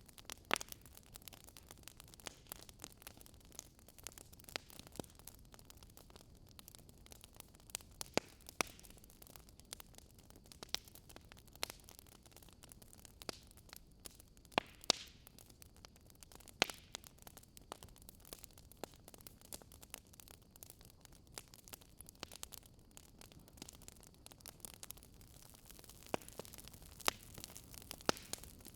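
Campfire crackling: a faint steady hiss of burning wood with irregular sharp pops, a few louder ones scattered through.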